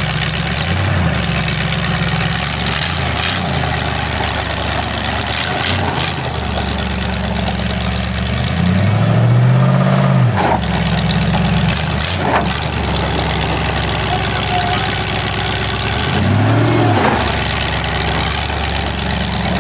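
Demolition derby car's engine idling, revved up and back down twice, about nine seconds in and again near the end.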